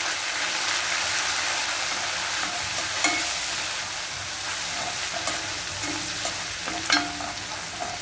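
Ginger-garlic paste with chili powder and turmeric frying in hot oil in a stainless steel pan: a steady sizzle while a slotted metal spatula stirs and scrapes. There are a few sharp clicks of the spatula against the pan, the loudest about three and seven seconds in.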